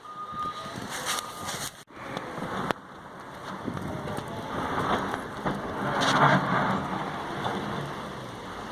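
Wind noise and street traffic in a snowstorm, with a vehicle passing that swells to its loudest about six seconds in and then fades.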